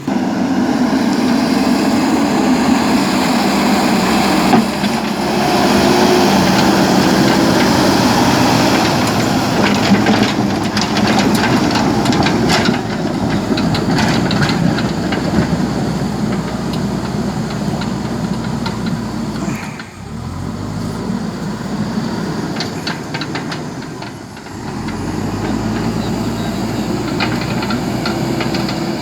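JCB backhoe loader's diesel engine running under working load, with a series of metallic clanks and knocks partway through. The engine drops off twice and picks up again.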